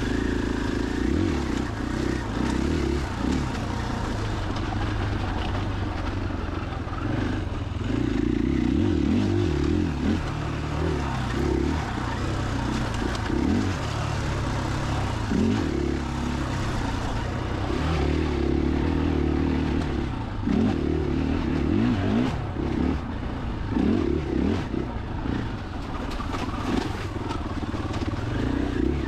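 KTM 500 EXC-F single-cylinder four-stroke dirt bike engine under way on a trail, its pitch rising and falling again and again as the throttle is opened and closed, with scattered light knocks.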